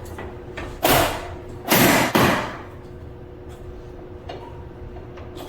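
Side flap of a window air conditioner being pulled out along its track, with two loud sliding scrapes about a second and two seconds in, and a few light clicks.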